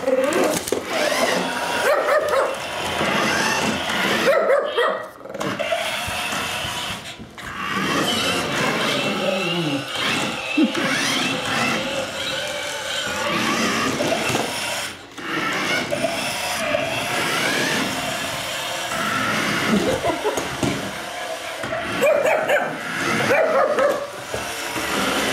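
Shih Tzu barking and yipping over and over, with some whimpering, broken by a few short pauses.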